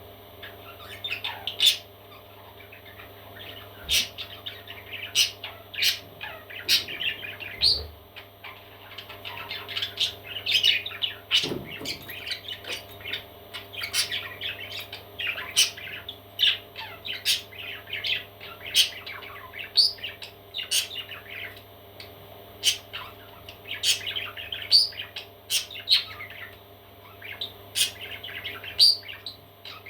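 Parrot chicks chirping in a busy, continuous chatter of short high calls, with sharper squawking peaks every second or so.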